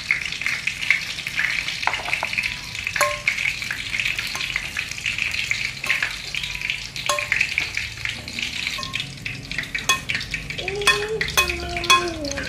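Food frying in hot oil in a pan, sizzling and crackling steadily, with a utensil stirring and clicking against the pan now and then. Near the end a short wavering pitched sound joins in, among a few louder clicks.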